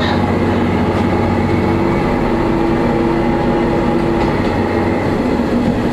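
Diesel railcar running, heard from inside the car: a steady engine hum over running and rail noise.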